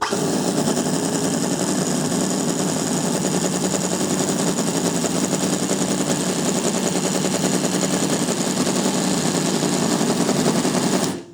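Cison V8 Pro miniature V8 engine running steadily through custom-made mufflers, a fast even stream of exhaust pulses, cutting off abruptly near the end.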